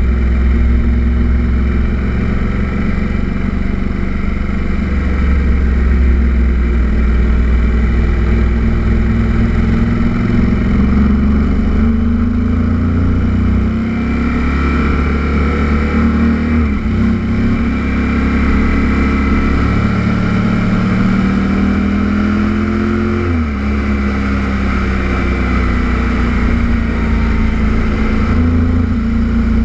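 Kawasaki Z800's inline-four engine running under way, its revs rising and falling through the bends, with two quick drops in pitch near the middle and about two-thirds through.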